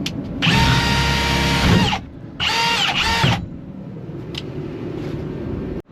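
Power drill running in two bursts, the first about a second and a half long and the second about a second, its motor whine dropping in pitch as each burst stops.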